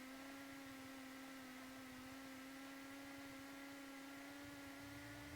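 Faint steady hum with a row of overtones, its pitch creeping slightly upward, in the Cessna 172's cockpit intercom audio while the plane sits parked at idle; a faint low rumble joins it near the end.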